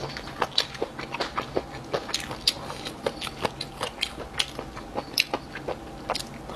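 Close-up crunchy chewing of triangle-bone cartilage: a run of sharp, irregular crunches, several a second.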